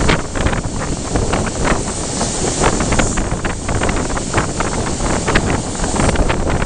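Wind buffeting the microphone over the steady rumble of a moving train, with irregular clicks and knocks from the running gear and carriage.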